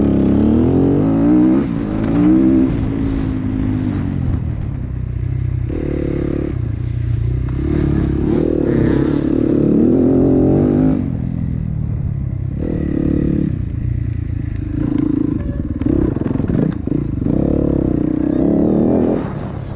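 Yamaha WR250F's single-cylinder four-stroke engine at racing pace: its pitch climbs and falls again and again as the throttle opens and shuts and the gears change, with a few short dips off the throttle. Heard through a helmet-mounted camera.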